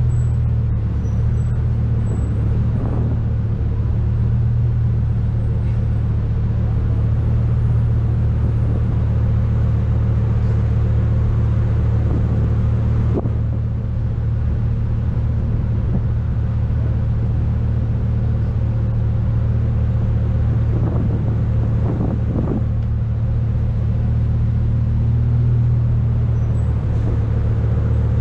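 Lamborghini Huracán's V10 engine running at a steady low idle while the car creeps along in slow traffic, an even low drone that holds unchanged throughout.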